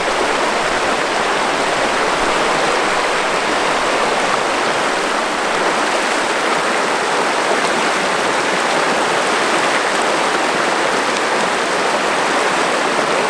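River water rushing over a riffle, a steady, even rush.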